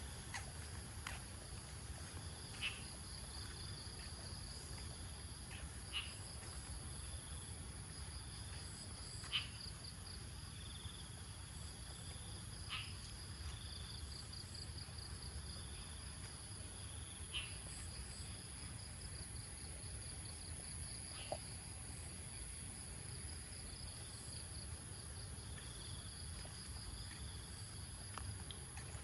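Insects trilling steadily: one high, even trill and a lower, pulsing one. A few short, sharp sounds come every few seconds over a low rumble.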